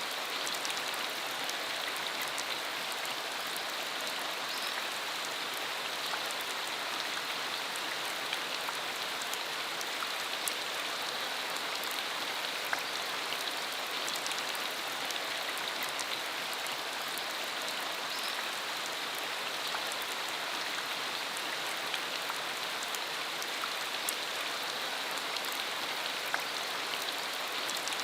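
Steady rain falling on a rural road: an even hiss dotted with many small drop ticks.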